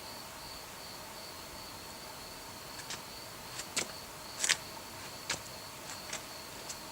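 Crickets chirping in a steady, pulsing trill. From about halfway through, a scatter of sharp clicks is heard, the loudest a little past the middle.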